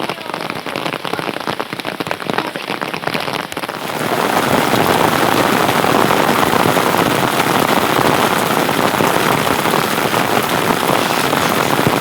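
Rain falling, first as a patter of separate drops; about four seconds in it turns suddenly into a louder, denser, steady hiss of rain.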